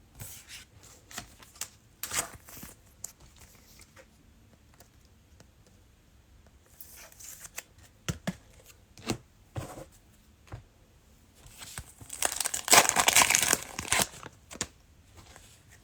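Cellophane wrapper of a basketball card cello pack being torn open and crinkled, in scattered short crackles and ticks, with the longest and loudest tearing and crinkling about three quarters of the way in.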